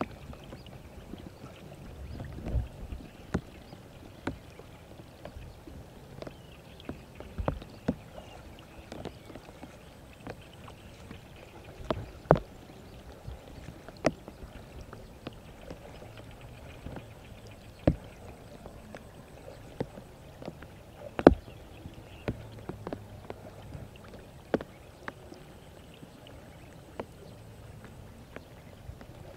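Scattered sharp knocks and taps, irregular and roughly a second or two apart, over a low steady background; two of them, near the middle and about two-thirds through, are much louder than the rest.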